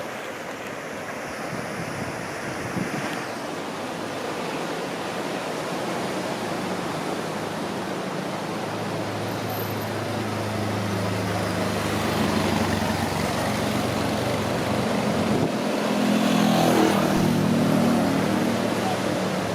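Steady surf and wind noise, with an engine coming closer from about six seconds in. It is loudest near the end, then starts to fade.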